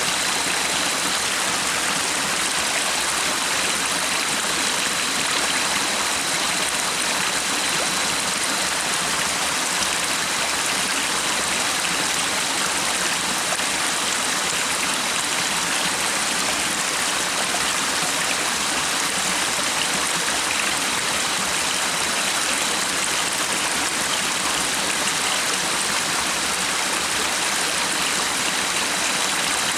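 Stream running: a steady, even rush of flowing water.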